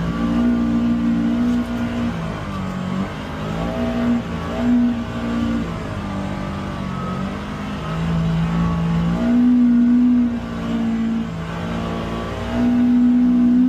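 UTV engine running under changing throttle, its pitch stepping up and down every second or two. It is loudest in two longer pulls, about two-thirds of the way in and again near the end.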